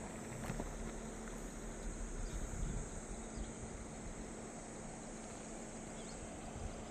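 Steady outdoor ambience: an even rushing noise under a high, unbroken insect chorus such as crickets.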